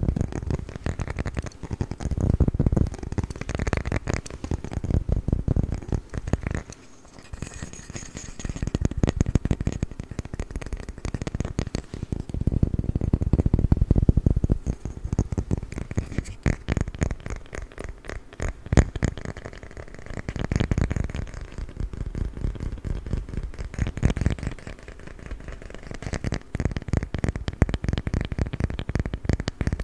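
Fingers rapidly tapping and scratching on a wooden lid, a dense run of small clicks with a brief pause about seven seconds in.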